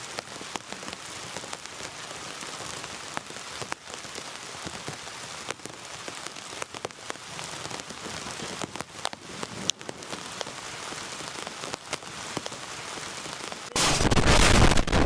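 Rain pattering steadily on a tent's fabric, with scattered sharper drop ticks. Near the end a much louder rough noise starts abruptly.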